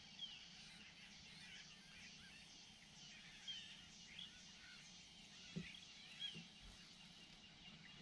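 Faint bird calls: scattered short chirps and whistles over a quiet background, with one soft knock a little past halfway.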